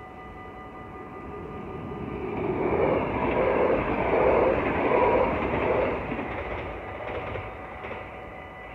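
NS double-deck electric train passing through a level crossing: its rolling and wheel noise builds to a peak about three to six seconds in, then fades away near the end. The crossing's warning bells ring steadily underneath throughout.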